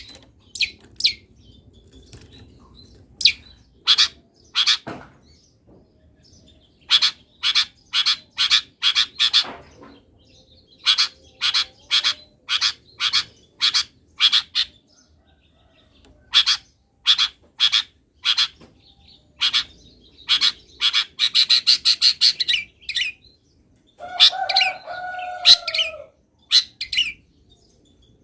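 Long-tailed shrike (cendet) singing: runs of sharp, rapidly repeated high chirps, a harsh buzzy stretch about three-quarters of the way in, and a lower, drawn-out call soon after. Its song is laced with mimicked calls of wild birds.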